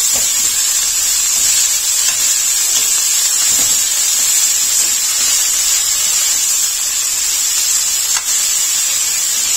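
Chopped fenugreek leaves sizzling in hot mustard oil in an aluminium kadhai as they are stirred with a metal spatula: a steady, loud hiss, with one sharp click about eight seconds in.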